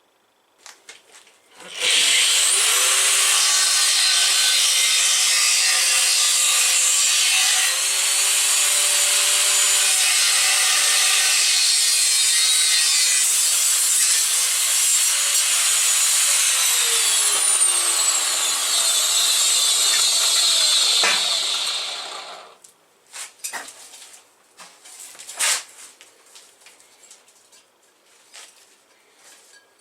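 Angle grinder with a cutting disc cutting through thick, rusty sheet steel: a loud, steady grinding with the motor's whine for about twenty seconds, winding down as the cut stops. A few short knocks and clatters follow.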